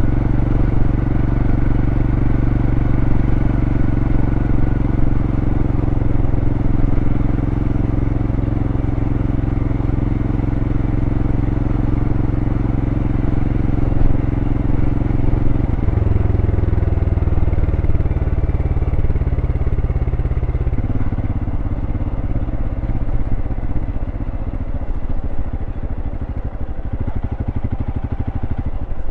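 Royal Enfield Scram 411's air-cooled single-cylinder engine, heard through its stock exhaust, pulling steadily under way. Its note drops in pitch about halfway through and again about five seconds later, settling into a slower, loping beat near the end.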